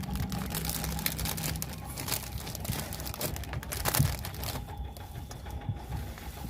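Close-miked eating sounds: a dense run of crisp crackles and clicks from chewing and handling food, loudest about four seconds in, then quieter.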